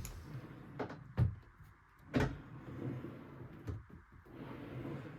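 A few knocks and scraping as a wooden wardrobe drawer is moved on its ball-bearing runners.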